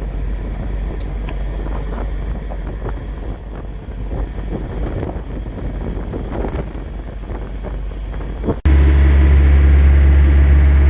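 Low rumble with scattered light clicks and knocks from work on the engine. About nine seconds in, it switches abruptly to a much louder, steady low hum from an idling semi-truck diesel engine.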